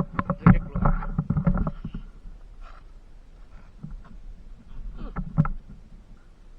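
A quick run of loud knocks and clatters with a faint ringing for about two seconds, then a second short cluster of knocks about five seconds in.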